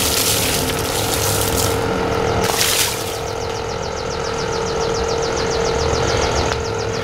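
Water spraying onto a car during a hand wash: two hissing bursts in the first three seconds, over a steady mechanical hum. From about three seconds in, a fast, even ticking runs at about eight a second.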